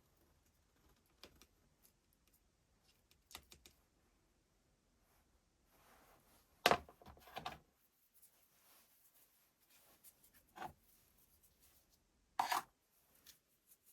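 Scattered clicks and knocks of small hard parts and tools being handled, with the loudest knocks about halfway through and again near the end.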